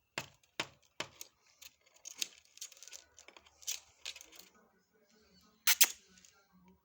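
Parrot's beak and claws clicking and tapping on a hard surface in an irregular run of sharp ticks. A louder rasping burst comes near the end.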